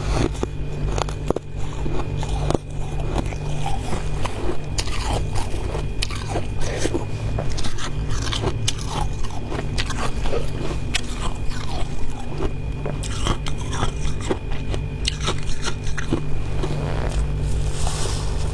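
Close-miked biting and chewing of powdery freezer frost: a dense run of crunches and crackles that goes on throughout. A steady low hum runs underneath.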